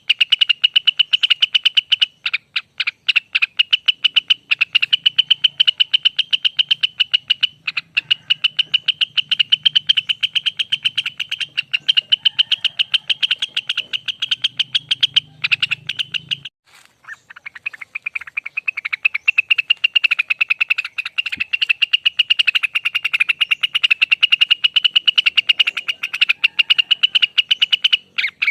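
Rengganis (cucak wilis) bird singing a long, fast trill of rapidly repeated high notes, its 'ropel'. The trill breaks off for about a second a little past the middle, then starts again.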